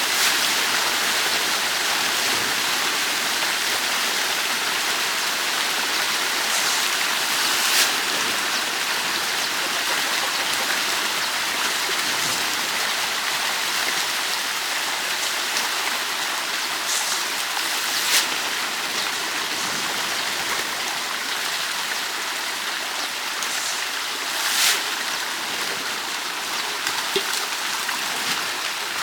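Steady rush of running water, with three brief sharp splashes or knocks standing out.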